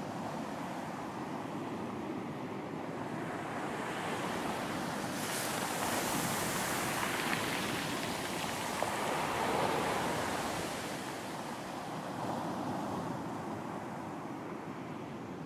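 Sea waves breaking on a beach: a steady wash of surf that swells as a wave breaks and rushes in through the middle, then eases back as it recedes.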